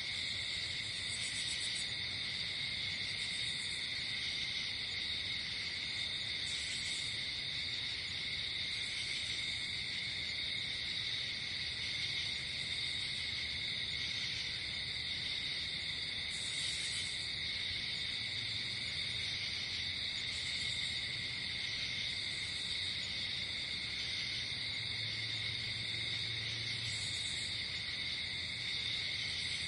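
Night chorus of crickets and other insects: a steady, unbroken trilling, with a short higher chirp repeating about every two seconds and a faint low hum underneath.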